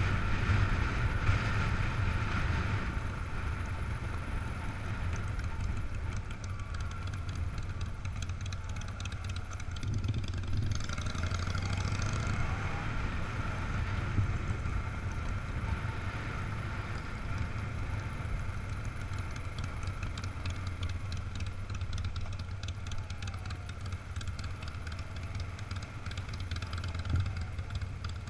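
Engines of classic cars and motorcycles running at low revs, idling and moving slowly, with a steady low engine rumble. Faint engine notes rise and fall now and then as a vehicle passes or revs.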